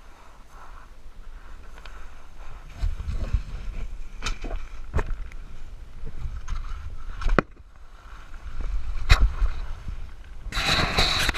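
Volcano board sliding down loose volcanic gravel: an uneven scraping rush with wind rumbling on the microphone, scattered sharp clicks, and a denser, louder scrape near the end.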